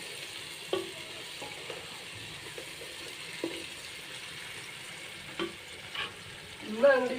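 Food frying in hot oil in a pan, sizzling steadily, with a spoon stirring and knocking against the pan a few times. A short voice is heard near the end.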